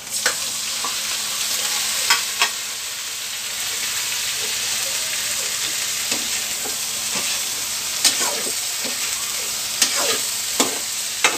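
Okra tipped into a hot wok of oil with fried chicken liver and gizzard, sizzling and frying, the sizzle jumping up as it goes in. A long metal ladle stirs it, clinking and scraping against the wok now and then.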